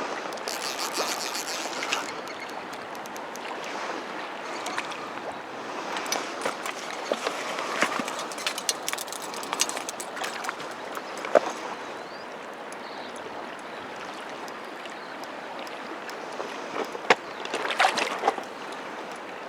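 River water flowing over stones, a steady rushing sound, with scattered short clicks and knocks. The sharpest one comes about eleven seconds in, and a cluster comes near the end.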